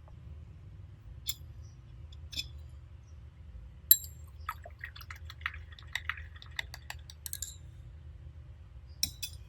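Close-miked ASMR eating sounds: a few sharp clicks and clinks, the loudest about four seconds in, and a run of small crackling chewing sounds in the middle, with more clicks near the end.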